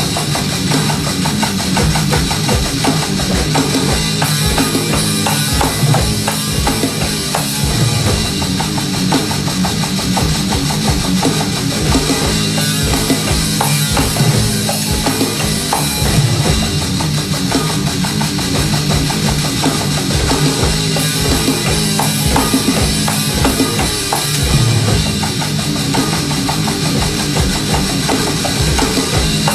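Live rock band playing an instrumental passage, with fast, busy drum kit and sustained bass and guitar.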